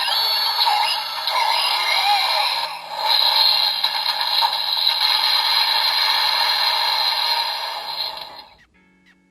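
The DX Dogoken Gekido toy sword's small speaker playing its electronic music and sound effects, with almost no bass, then stopping about eight and a half seconds in.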